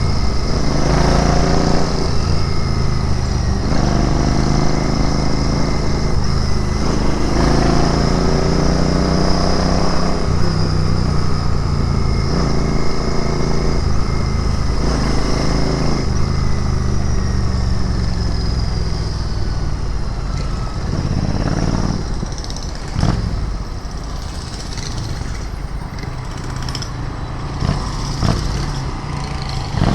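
Royal Enfield Interceptor 650's parallel-twin engine under way, pulling up through the gears in several rising runs with a drop in pitch at each shift. In the last third it settles to a lower, quieter note, with a few short knocks.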